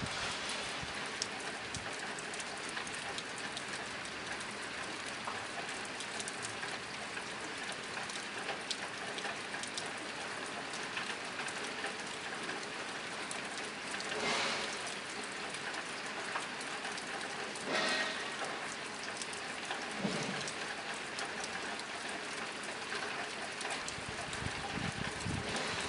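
Steady rain pattering on a tin roof: a dense, even hiss of drops with many small sharp ticks. Brief louder swells come about 14 and 18 seconds in.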